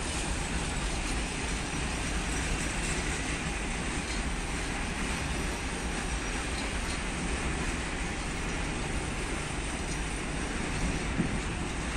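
Freight train of tank wagons rolling through a railway yard: a steady rumbling rush of wheels on rail, with one short knock near the end.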